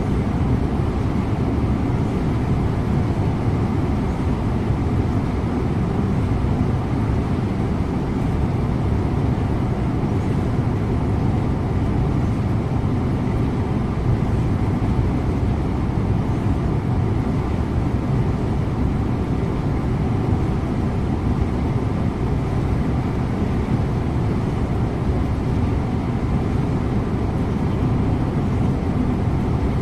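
Scania InterLink bus driving at a steady speed: an even, low hum of engine and road noise that does not change.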